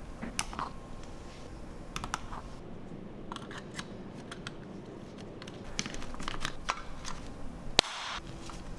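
Scattered small clicks and taps of hard plastic and metal parts being handled, with one sharper click near the end.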